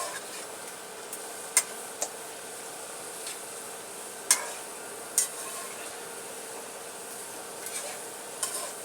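A spoon stirring a pot of simmering curry, knocking sharply against the pot four or five times over a steady hiss from the pot on the stove.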